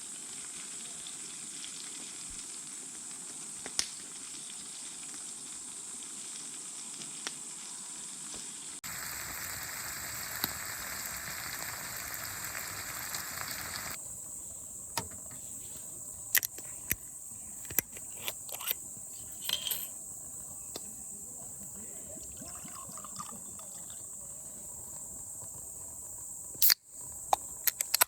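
Steady high-pitched chirring of insects, with a louder sizzling hiss for several seconds near the middle and a scattering of sharp clicks and knocks later on.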